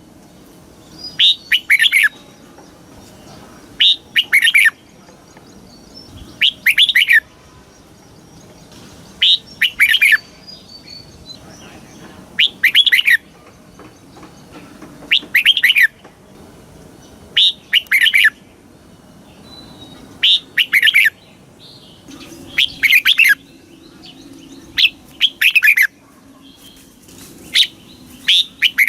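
Red-whiskered bulbul singing. It repeats a short, clear phrase of quick sliding whistled notes about every two and a half seconds, with brief pauses between phrases.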